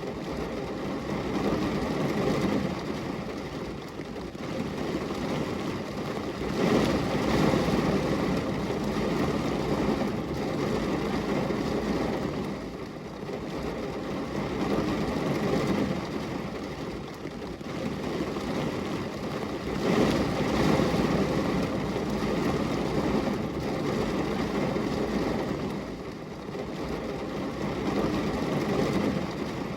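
Rain falling on a glass window: a steady, even hiss that swells and eases every few seconds.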